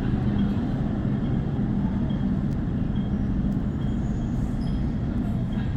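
MTR M-train electric multiple unit heard from on board: a steady low rumble, with a faint high tick repeating about once a second.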